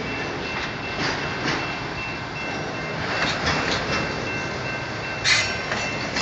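Freight train of autorack car haulers rolling past: steady wheel-on-rail rumble with a faint steady high squeal and scattered clanks, the loudest just past five seconds in.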